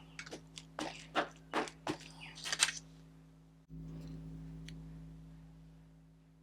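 A rubber stamp dabbed repeatedly onto an ink pad, about seven quick soft taps in the first three seconds, then only a faint steady hum.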